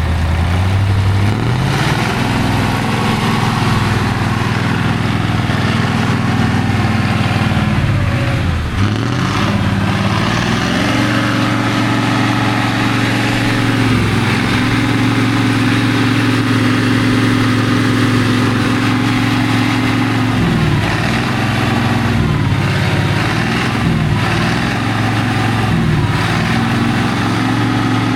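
Heavy off-road competition truck's engine working hard: the pitch climbs, falls away sharply about nine seconds in, then rises again and holds high with several brief dips as the throttle is worked.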